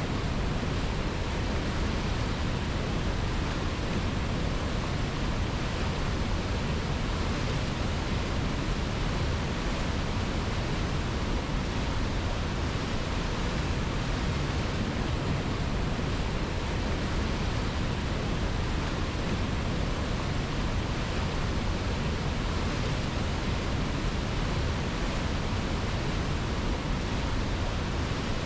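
Steady rushing of a river, an even, unbroken hiss of flowing water with no separate splashes.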